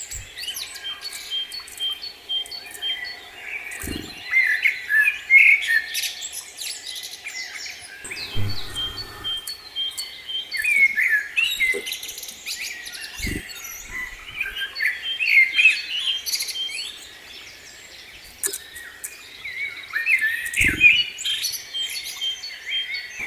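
Small songbirds singing and chirping, with varied, overlapping high phrases and short runs of quick repeated notes. A few soft low thumps come in between.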